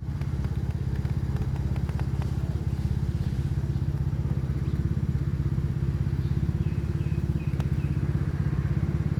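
Domestic cat purring close up: a steady low purr with a fast, even pulse.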